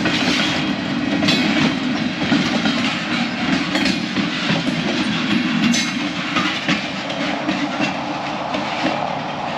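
Freight cars rolling slowly past on steel wheels: a steady rail rumble broken by irregular clicks as the wheels cross the rail joints.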